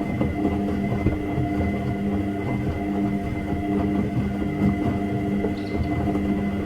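Washing machine running: a steady machine hum with several held tones over an uneven low rumble.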